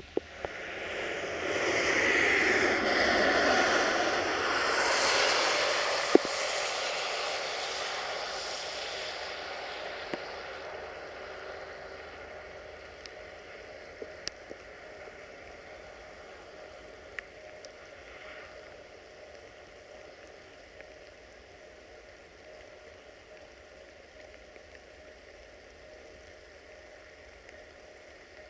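A diesel train running past on wet track: a loud rushing wash that swells within the first second and fades away over about ten seconds. Afterwards a faint, steady engine hum sits under the hiss of rain.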